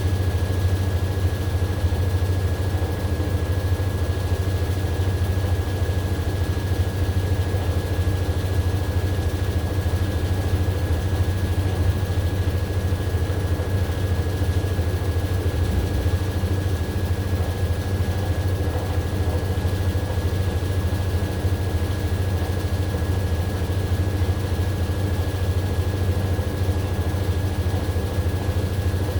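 AQUA AQW-DX12M drum washing machine running steadily, a constant low hum with a thin high whine above it.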